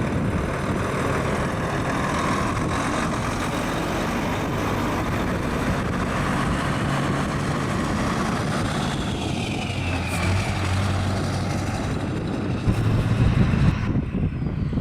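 Heavy diesel truck engines running, a steady low rumble; near the end it gets louder and more uneven.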